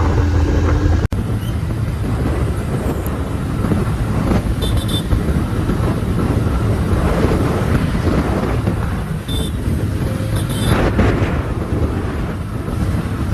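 Wind rushing over the microphone and road and traffic noise from a vehicle moving fast through city traffic, with a steady low rumble. A few short high beeps sound around the middle.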